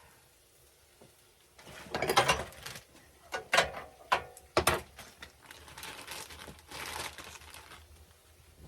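Kitchen handling sounds from preparing to cook: a burst of rustling, then four sharp knocks and clatters of cookware or utensils over about a second, then a softer stretch of rustling.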